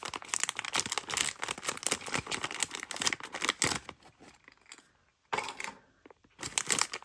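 Gift packaging being handled and torn open: a quick run of crinkling and tearing that dies down about four seconds in, with one short rustle in the lull, then crinkling again near the end.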